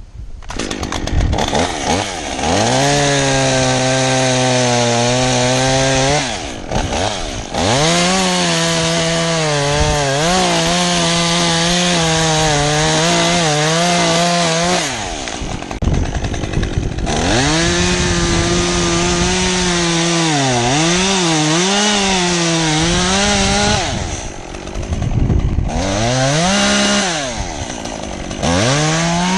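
Stihl two-stroke chainsaw revved up and held at high speed in four bouts, its pitch sagging and wavering as it works through wood, dropping back to a lower speed between bouts.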